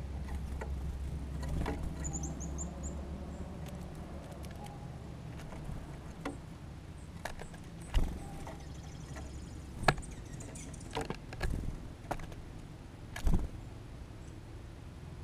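Small birds at a seed feeder: five or six sharp taps and knocks, in the second half, from pecking and landing, with a few brief high chirps about two seconds in, over a steady low rumble.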